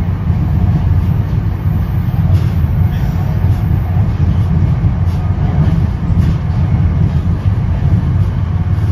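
Steady low rumble inside an NJ Transit Comet commuter coach running at speed, its wheels rolling on the rails, with a few faint clicks.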